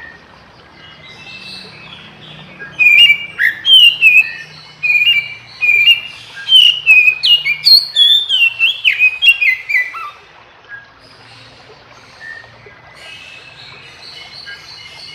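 Oriental magpie-robin (kacer) singing a loud, varied run of whistled phrases with sharp downward-sweeping notes for about seven seconds, with fainter chirps before and after.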